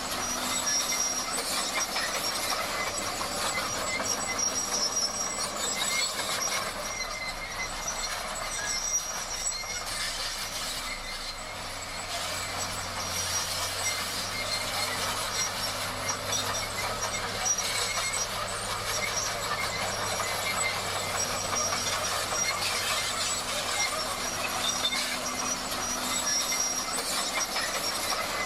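Crawler bulldozer working steadily, its steel tracks squealing and clattering over a low diesel engine drone.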